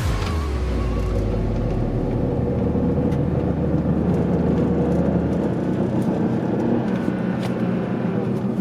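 A 2006 BMW 330i's N52 straight-six and road noise, heard steadily while driving. A deep low rumble eases about five seconds in.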